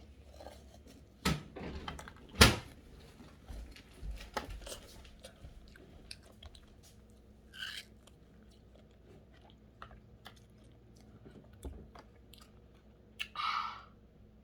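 A child chewing and crunching frozen homemade drink ice cream close to the microphone, with scattered sharp clicks and knocks, the loudest about two and a half seconds in.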